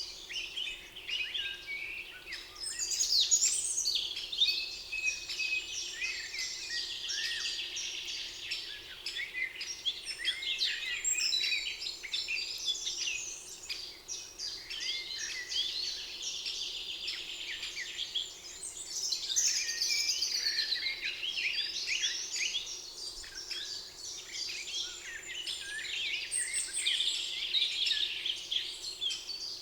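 Several songbirds singing at once in a forest dawn-chorus-like mix of overlapping chirps, whistles and short phrases, including a rapid trill that comes twice.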